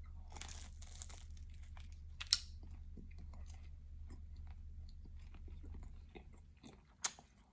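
A man chewing a mouthful of Jamaican spinach patty dipped in curry sauce, close to the microphone, with many small mouth clicks and a couple of louder ones.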